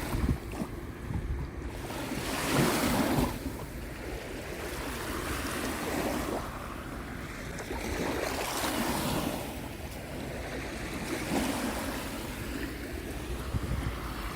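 Lake Ontario waves washing onto the beach, swelling about every three seconds, with wind rumbling on the microphone.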